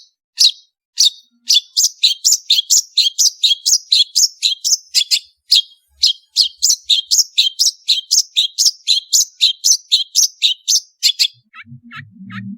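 Long-tailed shrike (cendet) singing a long string of sharp, repeated high chirps. The chirps come about twice a second at first, then speed up to about four a second. A few softer, thinner notes follow near the end.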